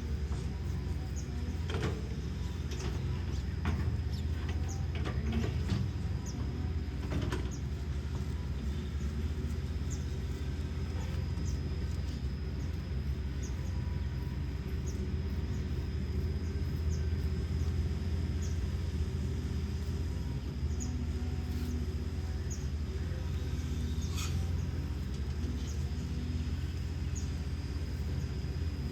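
Hino J05E-TG four-cylinder turbodiesel of a Kobelco SK210LC excavator running steadily with a low, even hum, a faint high tick about once a second above it.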